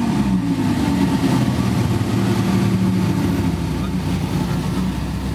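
Audi R8's V10 engine idling just after start-up: the revs drop from the start-up flare in the first half second, then hold a steady, fast idle.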